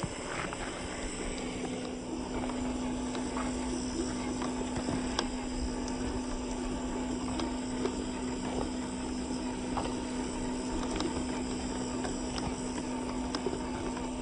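Electric motor of an off-road RC car running at a steady, unchanging pitch, with scattered clicks and knocks.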